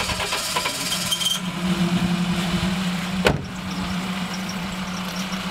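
A car engine running steadily, with a single sharp click a little past halfway.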